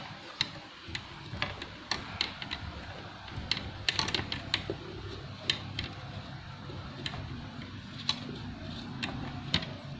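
Laptop's plastic bottom case being pried open and handled: irregular sharp clicks, some in quick clusters, over low rumbling handling noise.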